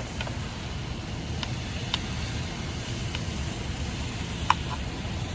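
Thin-sliced beef frying in its own fat in a pan on a portable butane stove: the burner runs with a steady low rumble, with a few scattered light pops and ticks, one sharper than the rest near the end.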